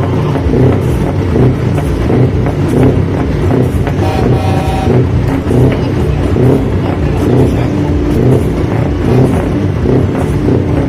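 Scania truck V8 diesel engine running with a steady, pulsing low rumble. A brief higher tone cuts in about four seconds in.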